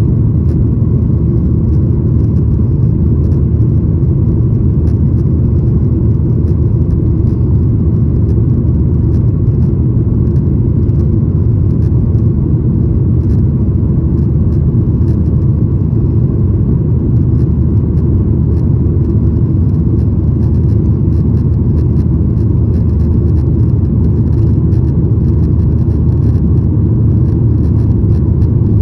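Cabin noise inside a Boeing 737-900ER: a steady, loud low rumble of the CFM56 jet engines and airflow, with no change in pitch or level.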